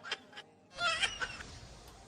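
A cat meowing once, a short call of about half a second, about a second in.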